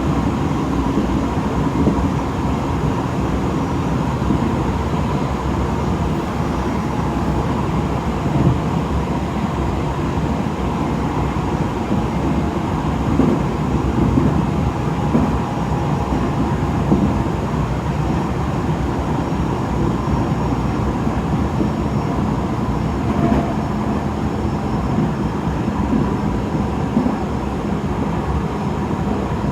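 Tokyo Metro 7000 series commuter train heard from inside the car while running between stations: a steady rumble of wheels on the track, with a faint steady tone joining in the later part.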